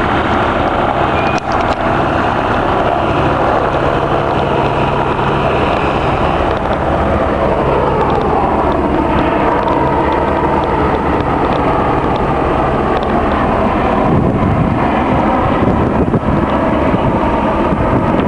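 Helicopter running with a loud, steady engine and rotor drone.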